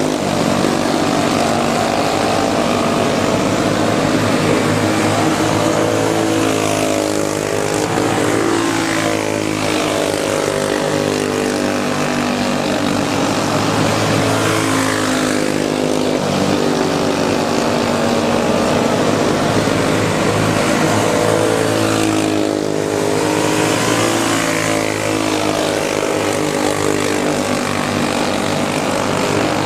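Racing go-kart engines running flat out on track, their pitch climbing and then dropping again about every seven to eight seconds as the karts lap.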